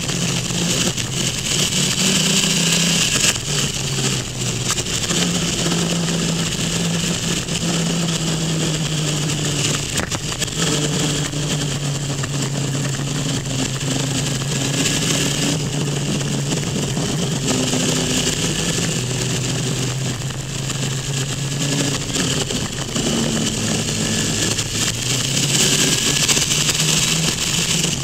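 Motorcycle engine running at road speed, heard from a camera on the bike, its pitch shifting up and down in steps through the bends. Steady wind rush over the microphone.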